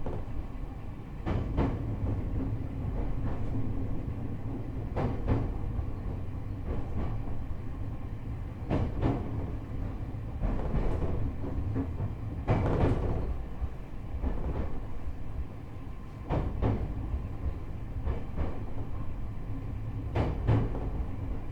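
Interior sound of a JR East E127 series electric train car rolling at low speed: a steady low rumble, with the wheels clicking over rail joints in pairs about every four seconds.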